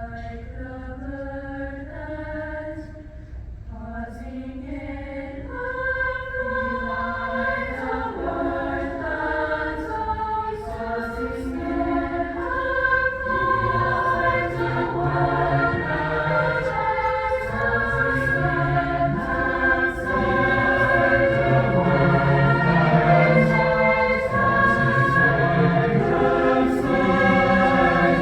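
A choir singing, several voice parts holding sustained chords, growing steadily louder through the passage.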